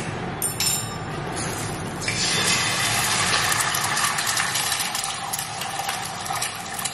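Food sizzling in hot oil in a pan on the stove: a steady hiss with crackles, getting louder about two seconds in.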